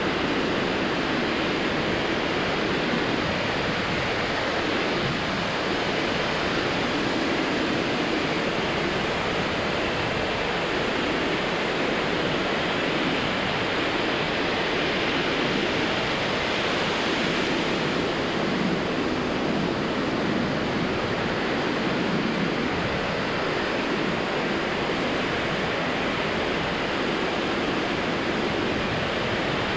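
Surf breaking on a sandy beach, a steady wash of waves.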